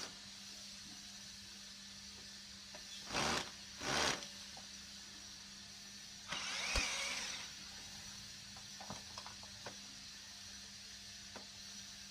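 Handling noises from a laser printer being taken apart: two short scrapes about three and four seconds in, a longer rasp a little after six seconds, then a few light clicks, over a steady low hum.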